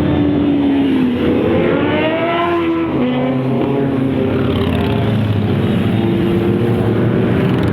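Superbike engine accelerating: its pitch climbs for a couple of seconds, drops sharply about three seconds in as it shifts up, then runs fairly steadily.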